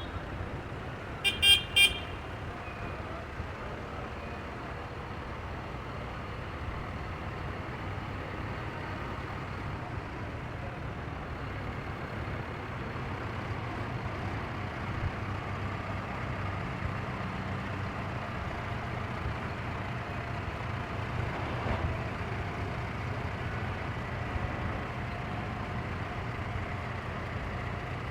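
A horn toots three times in quick succession about a second in, over the steady low running of tractor engines.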